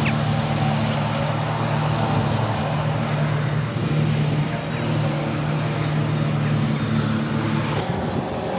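Farm tractor engine running at a steady speed, with noise spread over the low and middle range. The steady engine note cuts off abruptly near the end and a different, rougher machine noise continues.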